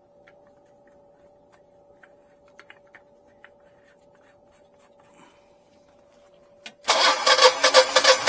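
A faint steady hum with a few light ticks, then a click and, about seven seconds in, the Generac Guardian standby generator's engine suddenly cranks loudly with a fast, even pulsing as it tries to start. The generator keeps kicking on and off, which the owner suspects is a sensor not getting gas.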